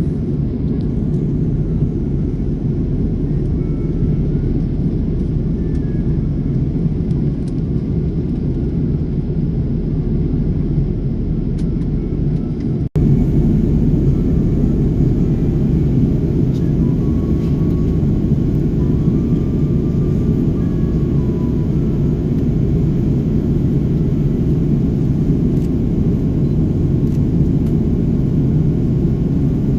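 Steady low cabin noise of an airliner in flight, the even rumble of its engines and airflow heard from inside. About thirteen seconds in it breaks off for an instant and comes back slightly louder.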